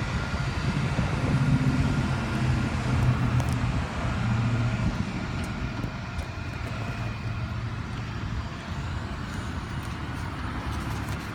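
A car engine running at low speed: a steady low hum, strongest in the first half and easing off a little after the middle.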